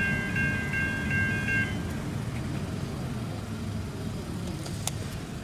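Safetran Type 3 electronic crossing bell ringing its rapidly repeating electronic tone, then stopping about two seconds in as the level crossing deactivates after the train has cleared. A low vehicle rumble runs underneath.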